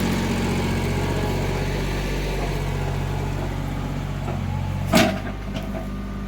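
Yanmar compact tractor's diesel engine running steadily, with a single sharp knock about five seconds in.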